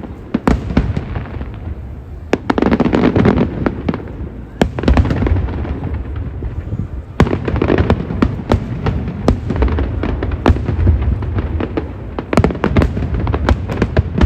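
Aerial fireworks bursting: an irregular, rapid string of sharp bangs and crackles over a continuous low rumble.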